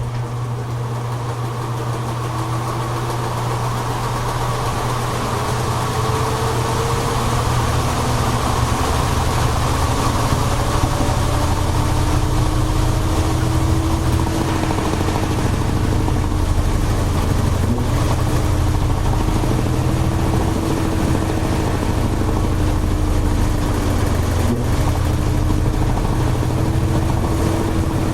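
Toshiba AW-42SEE4 top-loading washing machine starting a spin: a click, then the motor runs the drum continuously with a low hum and a slowly wavering whine. It grows louder over the first several seconds as the drum picks up speed, then holds steady.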